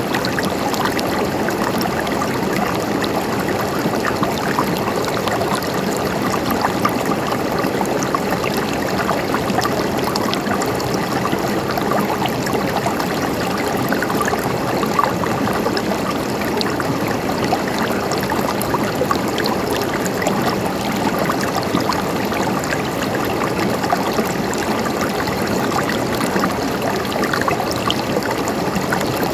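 Mountain stream flowing and trickling steadily over rocks.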